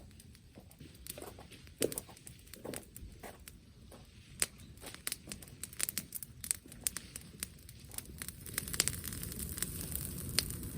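Wood campfire crackling, with frequent sharp pops and snaps. About eight and a half seconds in, a steady low rushing noise rises under the crackle.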